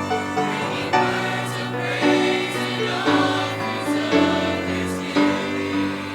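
Choir singing a gospel worship song in harmony over accompaniment, with new chords coming in about once a second.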